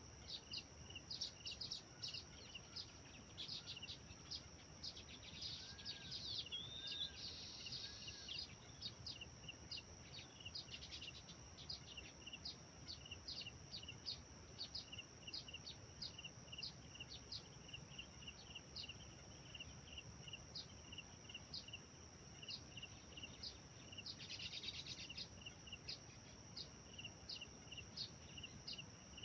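Birds chirping and calling over a steady high insect drone. A short, sharp chirp repeats about twice a second throughout, with a few fuller bird phrases about five to eight seconds in and a brief flurry of calls near the end.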